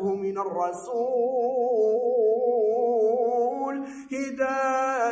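A man's voice sings an Arabic devotional hymn in praise of the Prophet Muhammad, holding one long, wavering melismatic note. A short break near the end leads into a new held note.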